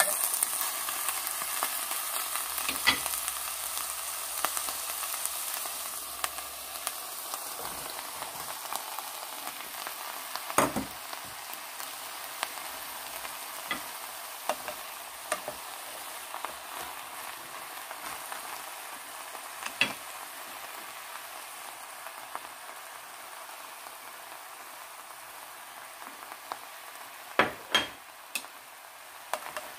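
Chicken, onion and green chili sizzling in a frying pan as they are stir-fried, the hiss slowly growing quieter. A few sharp knocks of a wooden spatula against the pan stand out, the loudest near the end.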